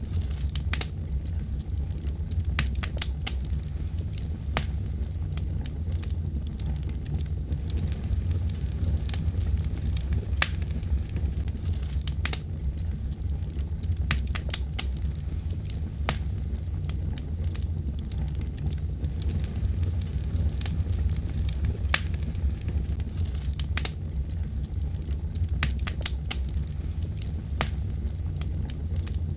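Fire crackling: irregular sharp pops and snaps, a few a second, over a steady low rumble of the flames.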